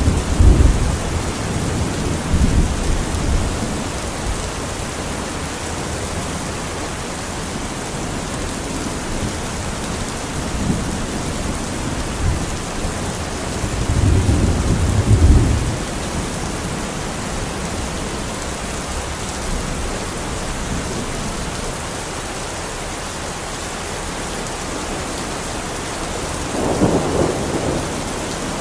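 Heavy rain pouring steadily on a metal roof, with low rolls of thunder at the start, about halfway through and near the end.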